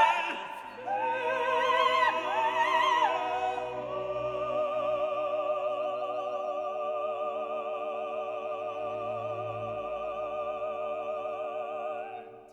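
Classical vocal music with orchestra: operatic voices singing with vibrato, settling into a long held chord that fades away near the end.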